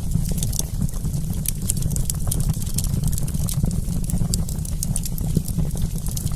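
Wood campfire burning: a steady low rumble of flames with frequent quick, sharp crackles and pops.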